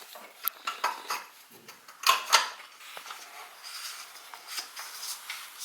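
Light clatter and knocks of hard objects being handled, with two louder sharp knocks about two seconds in.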